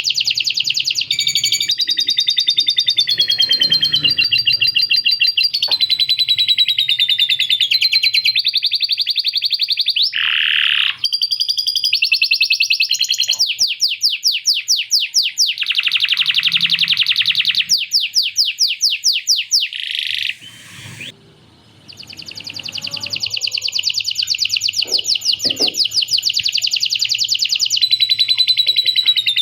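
Male domestic canary singing a long, loud song of fast trills and rapid repeated-note rolls, in the lovebird-like chattering phrases that it has learned. The song breaks off briefly a little past the middle, then goes on.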